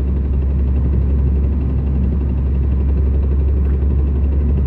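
Car driving in gear with a steady low, rough knocking rumble from the drivetrain. The knock comes in any gear and goes away with the clutch pressed or in neutral, a sign of a fault in the transmission or drive line rather than the CV boots, which are intact.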